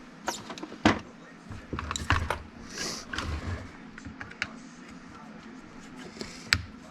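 Scattered clicks, clinks and knocks of tools and chainsaw parts being handled while the saw is taken apart, with a sharp knock about a second in and another near the end.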